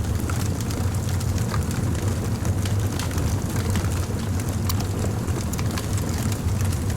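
Fire crackling, with scattered sharp pops and snaps over a steady low rumble.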